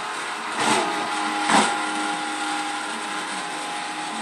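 Vacuum cleaner running steadily with a motor whine, with two brief louder surges about a second apart near the start.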